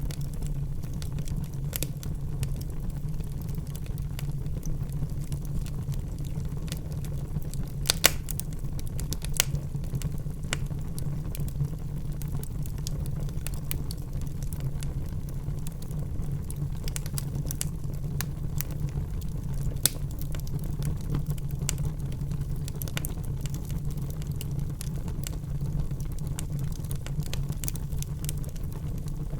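Wood fire burning in a fireplace: a steady low rumble of the flames with scattered crackles and snaps, the sharpest pops about eight seconds in and again around twenty seconds in.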